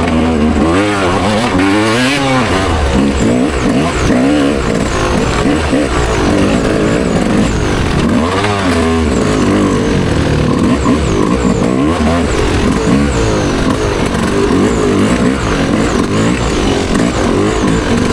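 Dirt bike engine revving hard and easing off again and again as the rider races, the pitch rising and falling every second or two over a constant rush of noise.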